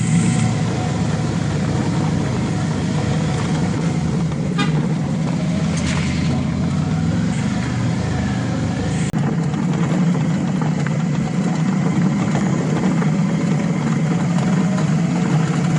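Suzuki V-Strom 650's V-twin engine running steadily under way, mixed with wind and road noise.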